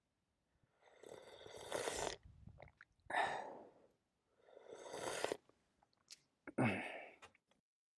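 A person noisily sipping hot tea: four breathy sips about a second and a half apart, the last ending in a short voiced sigh.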